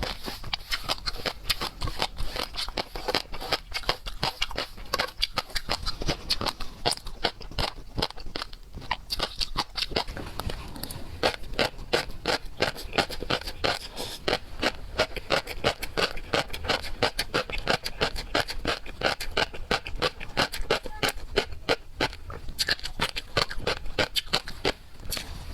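Close-miked chewing and slurping of raw seafood: a dense run of small wet clicks and crackles, several a second.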